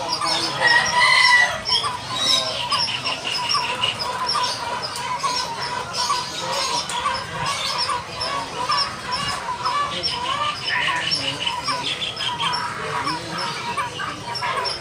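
Young lineated barbets (takur bultok) calling: a busy, unbroken stream of short, repeated chirps.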